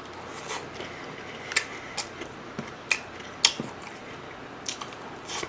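Close-miked chewing of a mouthful of food, with irregular sharp wet mouth clicks and smacks about every half second.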